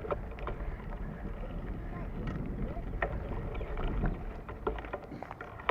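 Bicycle riding along a dirt trail: a steady low rumble of wind and tyres, with scattered short clicks and rattles from the bike over bumps.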